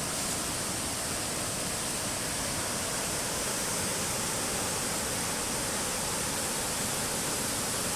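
Steady rush of a waterfall: water pouring over rock in an even roar that holds without change.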